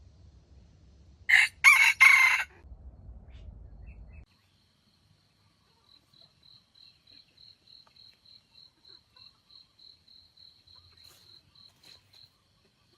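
A junglefowl rooster crows once, loud and short. Later a faint high-pitched chirp repeats about three times a second for several seconds.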